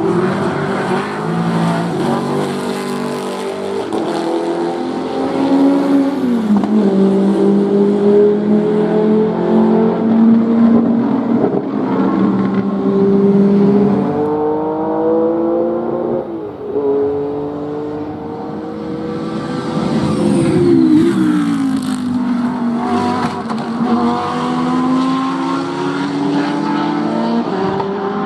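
Race car engines running at speed on a circuit, rising in pitch as they rev and dropping sharply at each gear change. About twenty seconds in, a car passes close, its pitch falling.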